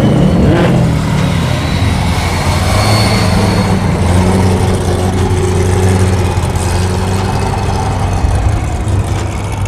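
A car engine revs up and drops back in the first second, then engines run steadily at idle with a low, even rumble.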